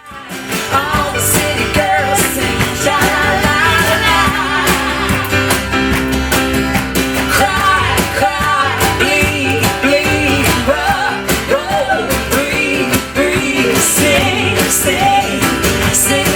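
Live band music with guitar, a steady low beat and a wavering melody line on top, cutting in abruptly at the start.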